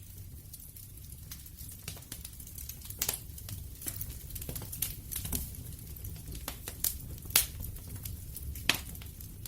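Wood fire crackling: a steady low rumble under constant small pops, with a few louder sharp snaps about three seconds in, around seven seconds and near the end.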